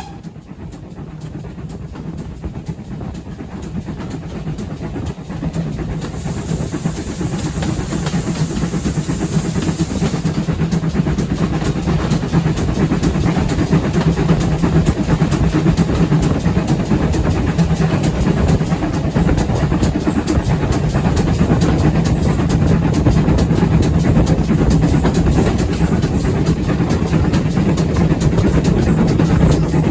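A steam-hauled train approaching and running by, its rumble on the rails growing louder over the first ten seconds or so and then holding steady. A high hiss rises between about six and ten seconds in.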